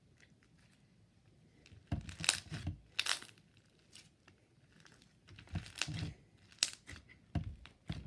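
Slime being squished and stretched by hand, giving wet crackling and popping sounds in two bunches, the first about two seconds in and the second from about five and a half seconds.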